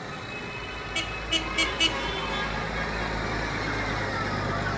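Tractor engines running steadily as they pass in a parade, with four quick, high-pitched beeps about a second in.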